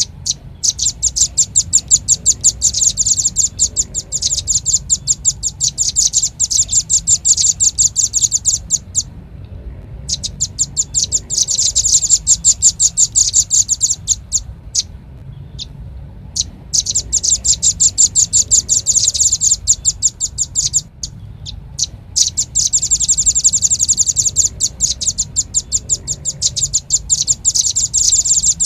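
Velvet-fronted nuthatch calling: long, very fast trills of high chipping notes in bouts of several seconds with short pauses between them. This is a lure recording used to call the birds in, with a faint steady low hum beneath.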